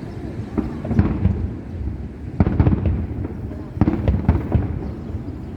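Fireworks display: clusters of sharp bangs from bursting aerial shells, about one second in, again around two and a half seconds and again near four seconds, over a steady low rumble.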